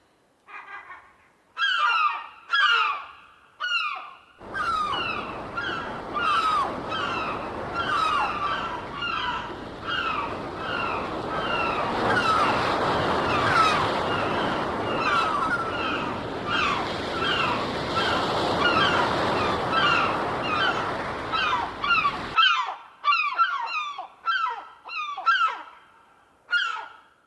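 Gulls calling over and over, harsh cries that slide downward, about two a second. From about four seconds in, the steady wash of surf runs underneath; it cuts off abruptly near the end, leaving the gull calls on their own.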